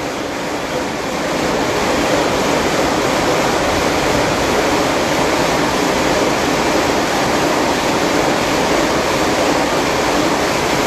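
Marble gang saw cutting a stone block: a really loud, steady rush of machine noise with no let-up.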